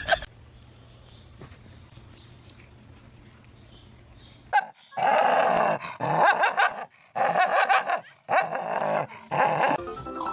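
A dog vocalising: after a few seconds of quiet, five loud, drawn-out calls in quick succession.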